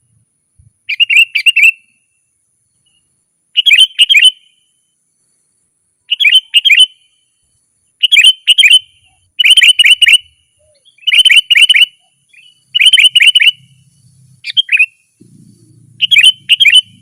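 Sooty-headed bulbul singing: about nine short phrases of three or four quick, bright notes, repeated every couple of seconds.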